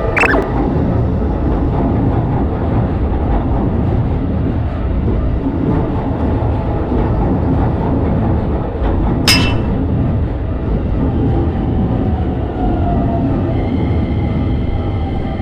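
A train passing over a level crossing: a steady, loud rumble of wheels on rails, with a sharp clank right at the start and another about nine seconds in. Near the end the crossing's steady warning tone comes back through as the train noise eases.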